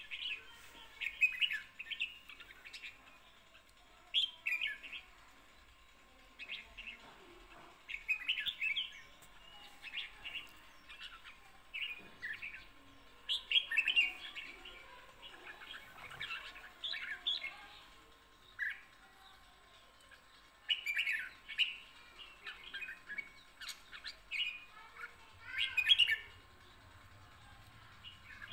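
Small songbirds chirping and twittering in short quick bursts every second or two, with quiet gaps between them.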